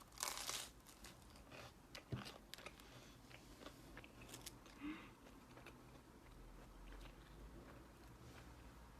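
Faint handling noises: a short crunch just after the start, a sharp click about two seconds in, then scattered soft ticks over near silence.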